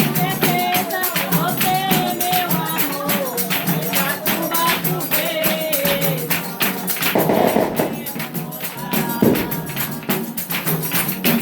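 Samba de roda in the chula style: a voice singing over fast, steady pandeiro strokes and percussion, with a denser, louder stretch of percussion about seven seconds in.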